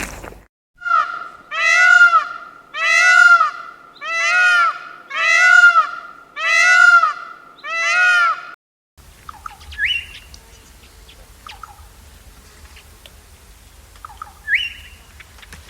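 A bird giving seven loud, pitched calls in a row, about one a second, each call rising and falling in pitch. Then the sound changes abruptly to a quieter low hum with two faint short chirps.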